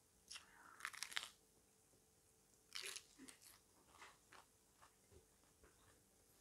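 Crisp lettuce being bitten and chewed: a cluster of crunches in the first second, another bite about three seconds in, then softer chewing crunches that fade away.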